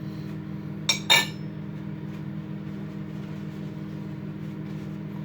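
Microwave oven running with a steady hum while it heats a ready meal. There are two sharp clinks about a second in, close together.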